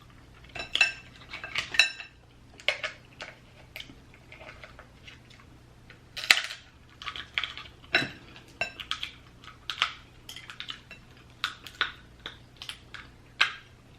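Cooked lobster claw shell being cracked and picked apart, with clinks against dishes or utensils: a long, irregular run of sharp cracks and clinks, some with a brief ringing tone.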